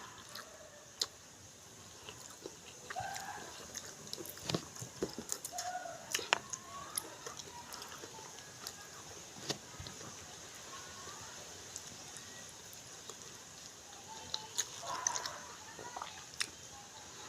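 Quiet eating sounds: scattered sharp clicks and taps, with a few short animal calls in the background, clustered about three to six seconds in and again near the end.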